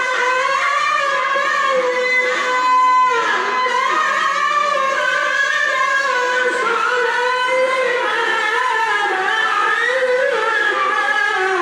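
A qari chanting Quran recitation in the melodic tilawah style: one long unbroken phrase sung at a high pitch, with ornamented turns and held notes.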